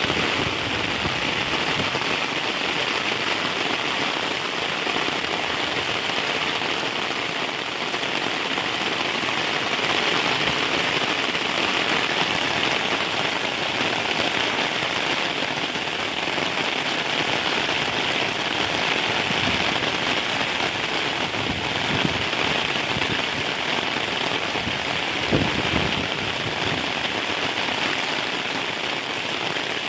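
Heavy rain falling steadily, an even hiss of rain on surfaces, with a couple of brief soft knocks about two-thirds of the way through.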